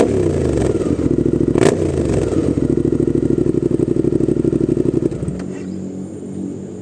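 Suzuki GSX-8S 776 cc parallel-twin with a full-system aftermarket exhaust, revved twice with a sharp crack at the start and again about two seconds in, the revs falling away after each. It is then held at steady revs for a few seconds before dropping off suddenly to a quieter, fading sound near the end.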